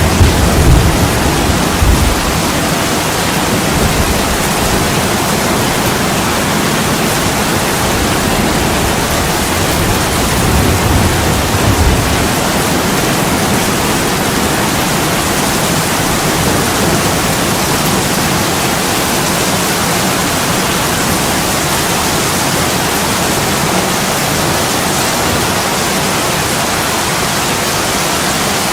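Heavy rain pouring steadily onto window glass, a dense even hiss. Low rumbles swell briefly near the start and again about ten seconds in.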